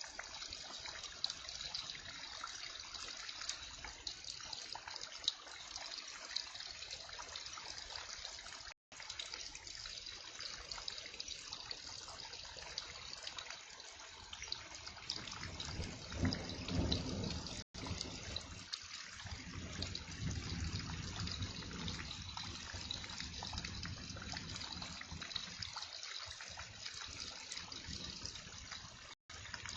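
Heavy rain falling steadily, with water running and splashing; a low rumble swells about halfway through. The sound drops out for an instant three times.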